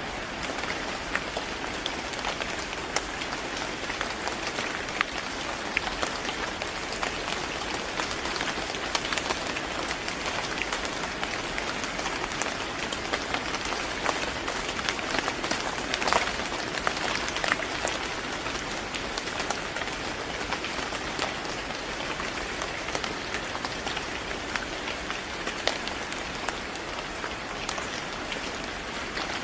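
Steady rain falling on a hard surface, an even hiss with many separate drops ticking sharply through it. It gets slightly louder for a moment about halfway through.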